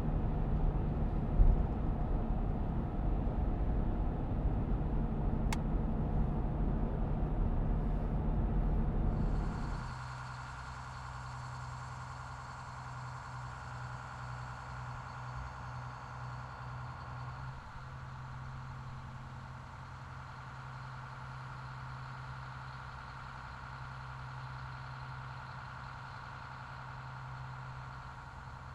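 Railway engine noise: a loud rumble with a single knock about a second and a half in, then an abrupt drop to a quieter, steady engine idle with a low hum.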